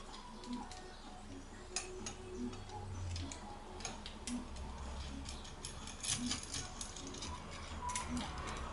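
Light metal clicks and clinks of a bearing puller and hand tools being handled and fitted on a gearbox mainshaft, busiest near the end. A faint, even tick about once a second runs underneath.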